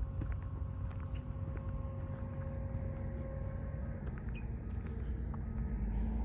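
Steady low rumble of distant engines, with a faint steady tone that stops about four seconds in. A few short, high bird chirps sound over it.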